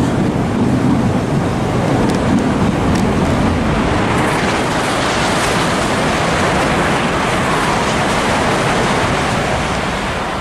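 Electric passenger trains running through the station: a Southeastern Class 395 high-speed unit alongside the platform, then a Eurostar passing on the high-speed line, giving a loud, steady rush of wheels on rail and moving air that eases a little near the end.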